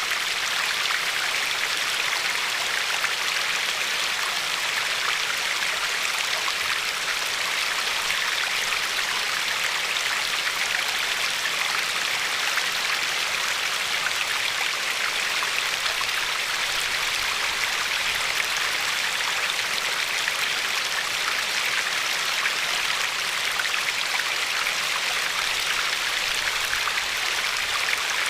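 River water flowing and lapping along a pebbly shore, a steady, even rush with no breaks or single events standing out.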